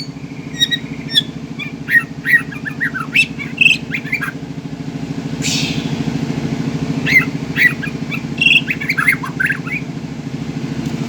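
White-rumped shama (murai batu) giving rapid chirps, squawks and short sliding whistles, in two bouts with a pause between. Under them runs a steady low engine-like drone.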